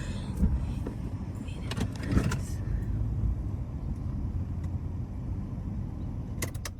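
Four-wheel-drive vehicle driving: a steady low engine and road rumble, with a few short knocks and clicks.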